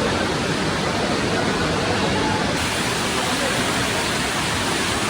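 Waterfall's falling water, a steady, unbroken rush.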